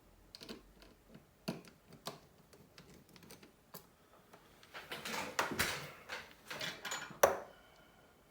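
Small clicks and taps of tools and tiny parts handled on a work surface while a phone is being taken apart and its screws removed. The clicks are scattered, grow denser about five seconds in, and end with one sharp click near the end.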